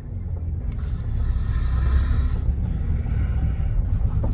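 Steady low rumble of a car driving, with a band of hiss from road or wind noise about one to two and a half seconds in.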